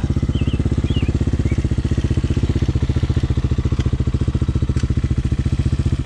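Hawk 250's single-cylinder four-stroke engine idling steadily, an even pulsing beat with no revving. A few faint high chirps early on.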